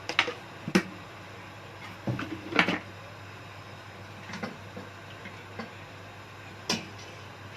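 A handful of short sharp knocks and clatters of kitchen cookware and utensils being handled, the loudest a cluster between about two and three seconds in, over a faint steady low hum.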